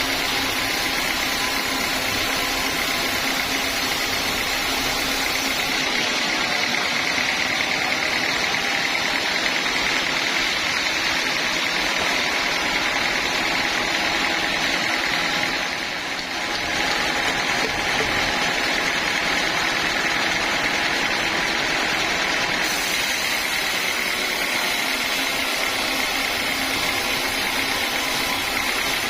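Sawmill saw running steadily, a constant mechanical hum and whine over noise, with a brief dip in level about sixteen seconds in.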